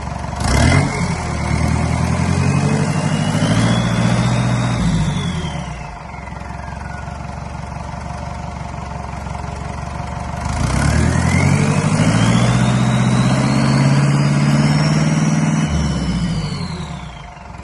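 Volvo Penta D4-180 turbocharged four-cylinder marine diesel revved up twice from idle. Each rev is held for a few seconds and let back down, with a high whine rising and falling with it. A short sharp noise comes at the start of the first rev.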